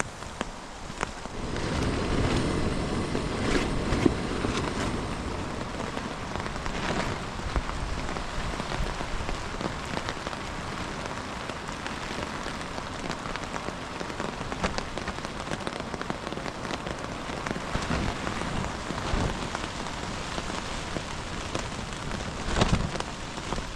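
Heavy rain pattering steadily with many close drop hits, under a gusting wind that rumbles on the microphone and swells in bursts.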